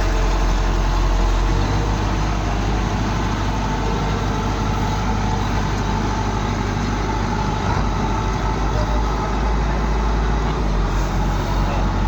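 Heavy farm-machinery diesel engine running steadily, its low note shifting slightly about a second and a half in and again near eight seconds.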